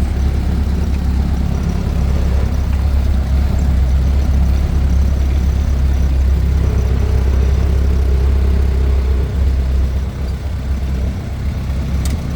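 1928 Ford Model A four-cylinder engine with a four-port overhead-valve head conversion idling steadily, warmed up from a short drive. A single brief click near the end.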